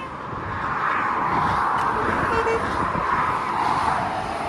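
Heavy lorry passing close by on the road, its tyre and engine noise swelling over the first second and staying loud, with no horn.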